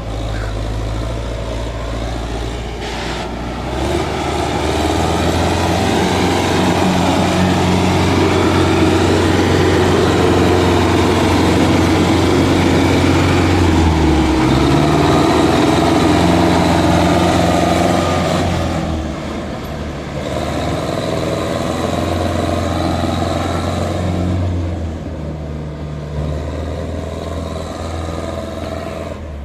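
Solis tractor's diesel engine working hard as it pulls a trolley up a slope. It grows louder about four seconds in, holds until about eighteen seconds, then eases off and rises and falls.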